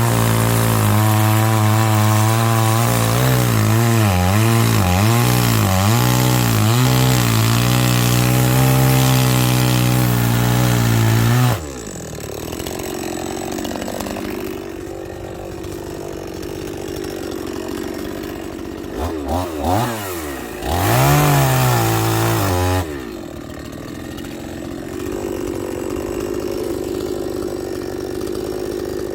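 Chainsaw running at high revs, its pitch wavering as it cuts wood, then dropping suddenly to idle about a third of the way in. Twice more the throttle is blipped briefly before it settles back to idle.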